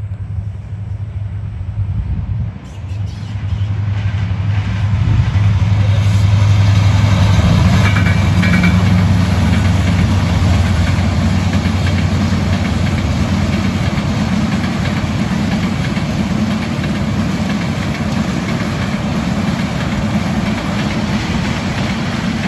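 A train's diesel locomotive running with a steady low drone, growing louder over the first few seconds and then holding steady, with a noisy rumble over the top.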